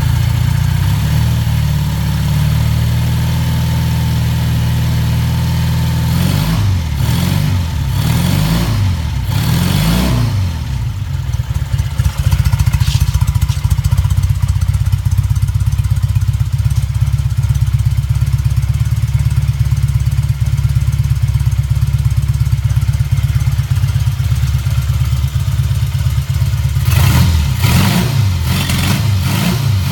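Triumph 5TA's 500cc parallel-twin engine idling steadily, with the throttle blipped about three times a little after five seconds in, the revs rising and falling each time, and blipped about three more times near the end.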